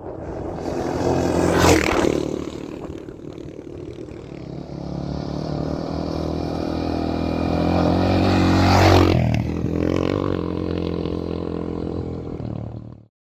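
Honda XR650R single-cylinder dirt-bike engine running under throttle, building to its loudest about nine seconds in and then easing off. The sound cuts off suddenly just before the end.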